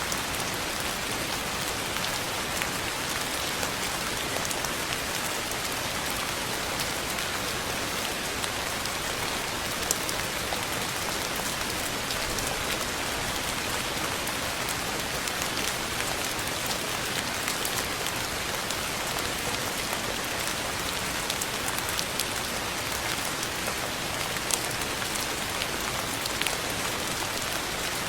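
Steady rainfall pattering on a surface, a constant hiss with scattered individual drop ticks.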